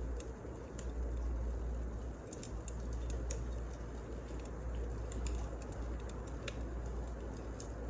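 Wood fire crackling: irregular sharp pops and snaps scattered a few per second, over a steady low rumble.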